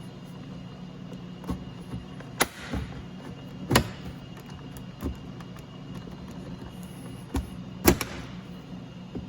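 Retaining clips of a 2013 BMW 320xi door trim piece snapping loose as a plastic trim tool pries it off: a series of sharp clicks and snaps, loudest about four and about eight seconds in, over a steady low hum.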